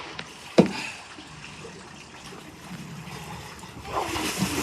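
Water sloshing and splashing in a pool as two people wrestle in it, with a single sharp knock about half a second in and louder splashing near the end.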